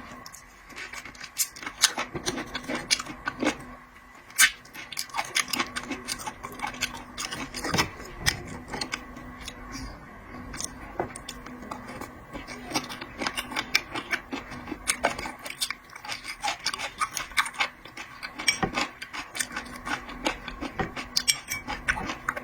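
Close-miked clicks, cracks and scraping of shellfish being handled, peeled and eaten, many sharp ticks at an uneven pace, over a faint steady hum.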